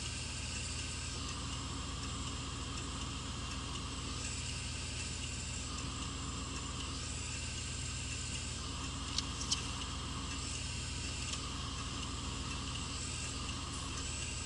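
Car engine running steadily at a constant pitch with road and tyre hiss, heard from inside the cabin while driving. Two brief clicks about nine seconds in.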